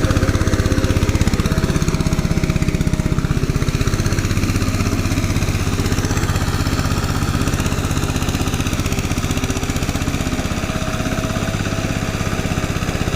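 An engine running steadily at a constant speed, with a fast, even firing beat.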